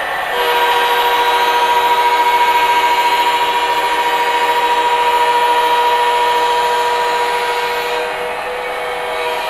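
MTH Premier O-gauge Genset model diesel locomotive running on track, its electronic diesel sound and running gear giving a steady whine that comes in about half a second in and eases near the end.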